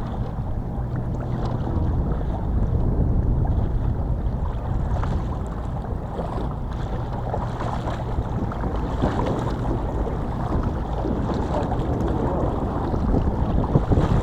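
Boat engine running steadily, a low hum under the rush of wind on the microphone and water.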